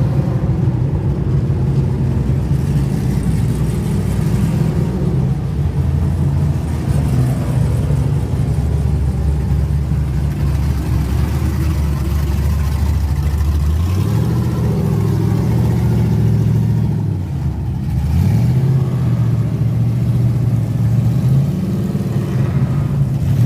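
Truck engine running steadily, then revving higher about two-thirds of the way through, dropping back for a moment and revving up again.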